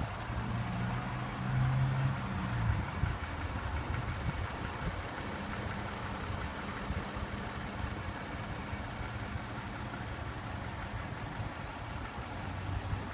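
A car engine idling steadily, a low hum that is a little stronger in the first three seconds.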